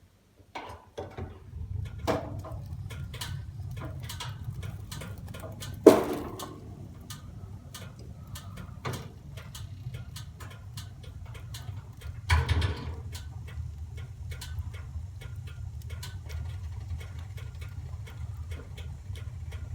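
Fire in a fireplace crackling, with irregular sharp snaps and two louder pops, over a steady low rumble.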